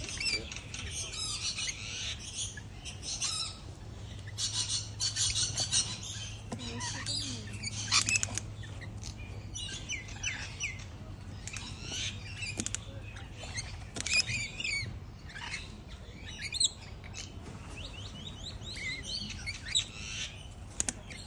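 Rainbow lorikeets and noisy miners calling together in dense, overlapping bursts of quick chirps and harsh chattering calls, with a few sharper, louder calls standing out.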